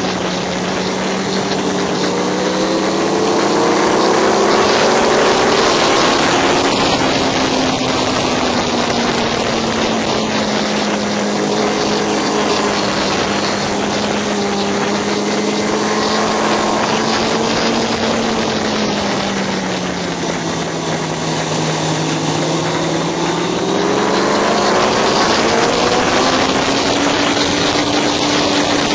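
Motorcycle engine pulling at track speed, its pitch rising and falling slowly as the rider goes through the corners, under heavy, steady wind rush.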